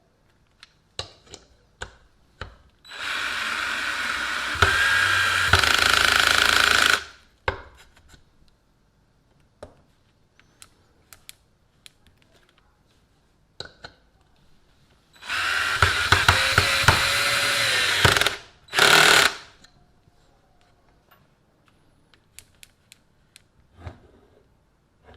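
Restored DeWalt DCD710 12-volt cordless drill running in bursts: a run of about four seconds that gets louder partway through, a second run of about three seconds, then a short burst. Clicks from handling the drill come between the runs.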